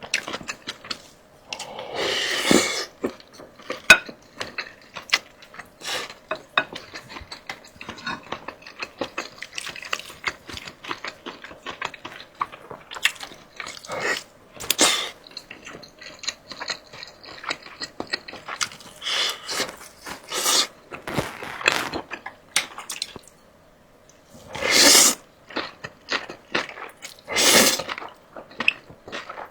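Close-miked eating of fried chicken and rice noodles: continuous chewing and crunching in quick small clicks, with a few longer slurps of about a second each, one about two seconds in, one near the middle and two near the end.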